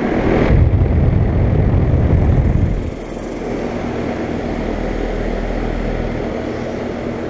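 Central air conditioner condenser units running with a steady hum. A loud low rumble covers the first three seconds, then stops.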